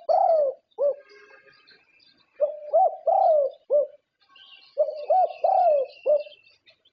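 Zebra dove (perkutut) cooing its song phrase three times, each a quick run of short rising-and-falling coo notes. Faint high chirps sound in the pauses.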